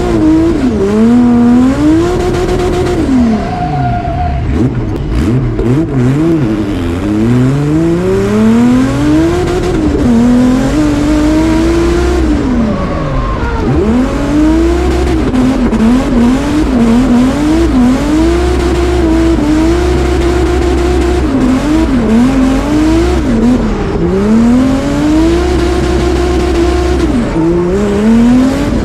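Turbocharged drift car's engine revving hard through a run. The revs climb and drop again and again and are held near the top for long stretches, with tyre squeal.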